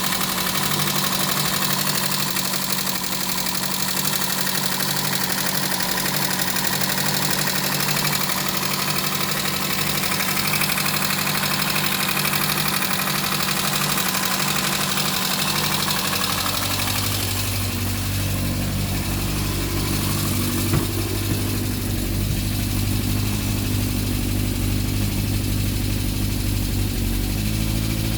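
Talbot Horizon's 1.1-litre Poissy four-cylinder petrol engine running steadily at idle. About two-thirds of the way through, the sound turns deeper with less hiss, and right at the end the pitch rises briefly.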